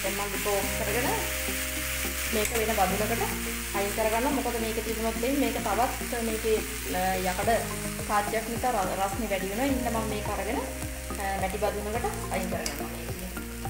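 Water spinach stir-frying in a metal pan: a steady sizzle with a metal spatula stirring and scraping through the greens. Instrumental background music plays underneath.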